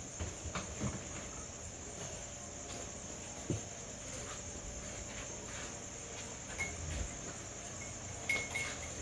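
Night insects, crickets, trilling in a steady high drone, with a few soft knocks. Several short high chirps come near the end.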